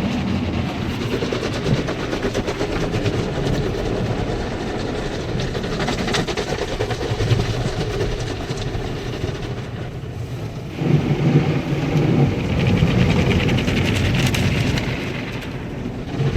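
Automatic tunnel car wash working over the car, heard from inside the cabin: a steady rush and rumble of water spray and wash machinery. It eases briefly about ten seconds in, then comes back louder and deeper.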